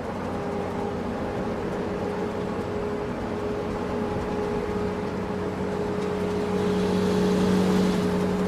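A motor vehicle running steadily: an engine hum holding one pitch over a broad rushing noise, growing a little louder toward the end.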